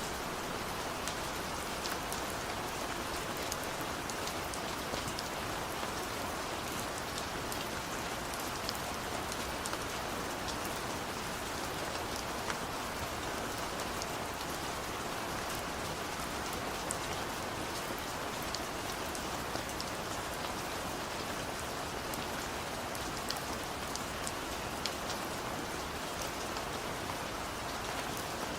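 Heavy rain falling steadily, a dense even hiss with scattered sharp drop ticks on a surface.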